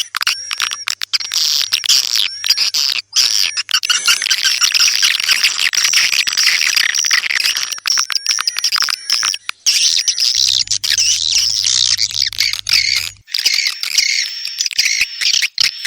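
Swiftlets twittering: a dense, continuous chorus of high chirps and short squeaky calls mixed with many sharp clicks. It is the kind of swiftlet call recording that is played to draw swiftlets into a nesting house.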